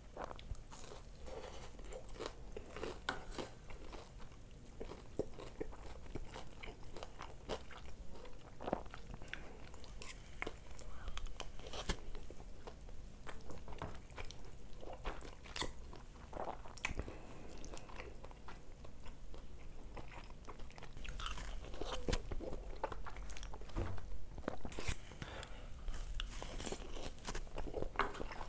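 Close-miked eating: a person biting and chewing food, crunching with many short clicks and wet smacks, growing louder and busier in the last several seconds.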